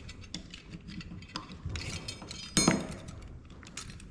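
Loose metal and plastic parts from a dismantled thermal printer clinking and clattering as they are handled and set down on a hard surface, with a louder clatter about two and a half seconds in.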